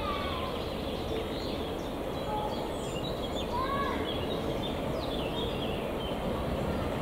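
Songbirds chirping and singing short phrases over a steady low background noise.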